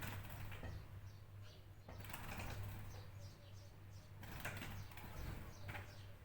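Small birds chirping in quick short notes, over and over, with several noisy swishes in between and a steady low hum underneath.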